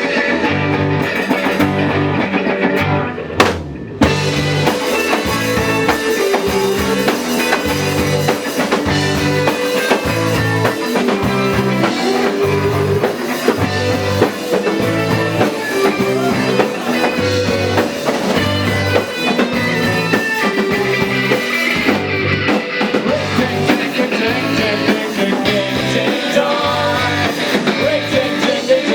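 Live rock band playing: electric guitars, bass and drum kit on a steady beat. About three and a half seconds in there is a sharp hit and a brief break before the band comes back in.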